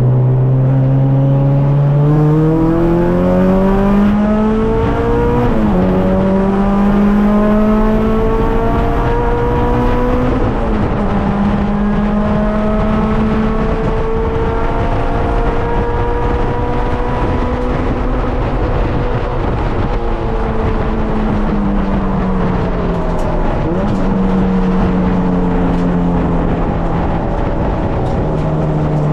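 K24-swapped Honda Civic's 2.4-litre four-cylinder engine pulling up through the gears, its pitch rising with two sharp upshift drops in the first ten seconds. It then holds steady speed, falls away as the car slows, with a quick downshift blip, and settles low near the end.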